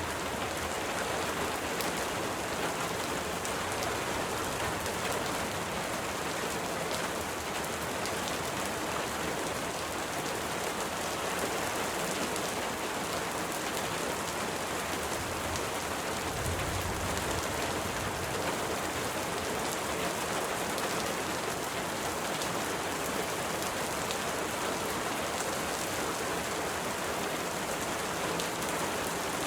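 Steady rain falling: an even hiss with scattered fine drop ticks, and a brief low rumble about halfway through.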